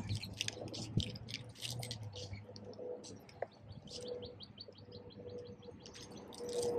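Small birds chirping, with a fast even run of short chirps, about five a second, midway through.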